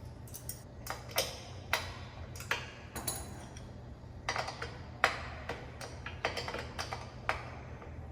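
A string of irregular, sharp metallic clicks and clinks, about two a second, from hand tools working the motorcycle's rear-axle chain adjuster.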